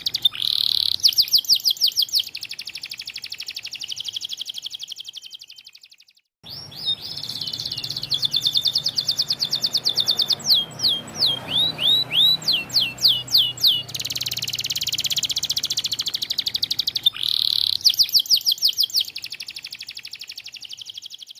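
White canary singing: long, fast trills of repeated high notes, broken by runs of quick down-slurred notes in the middle. The song stops briefly about six seconds in, then starts again.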